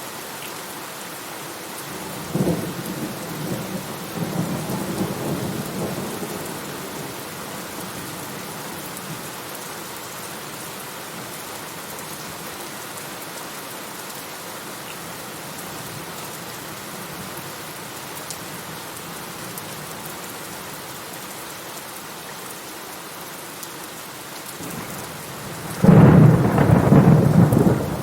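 Steady heavy rain with two rolls of thunder: a rumble about two and a half seconds in that fades over a few seconds, and a louder, sudden clap near the end that rolls on.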